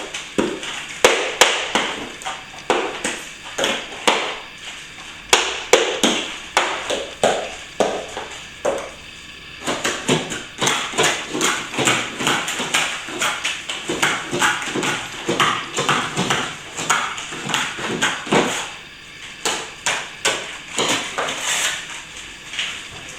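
A hand tool tapping and scraping against plaster in quick, irregular strokes, several a second, with a short pause about nine seconds in.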